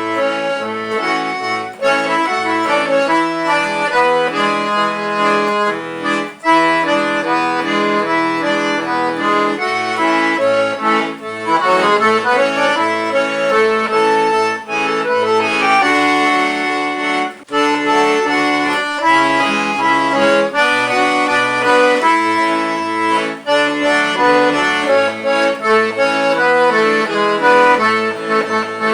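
Accordion playing a lively tune: a right-hand melody over a steady rhythmic pattern of left-hand bass notes and chords.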